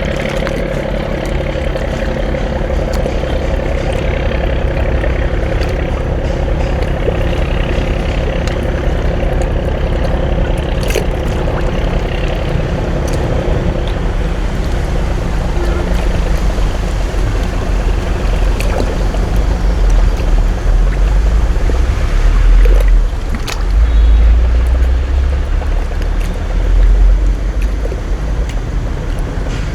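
Boat engine running steadily with a deep rumble and a steady hum. In the last third, heavy low rumbling swells come and go.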